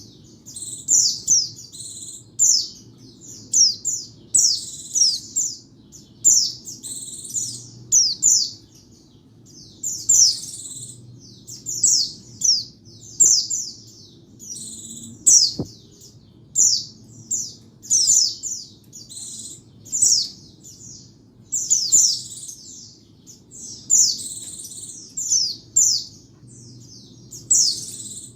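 White-eye (pleci) singing: short, rapid, high-pitched twittering phrases repeated about once a second, with a faint low hum underneath.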